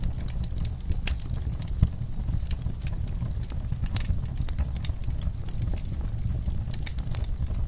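Wood fire in a fireplace crackling, with irregular sharp pops and snaps over a steady low rumble of the flames; one louder pop about two seconds in.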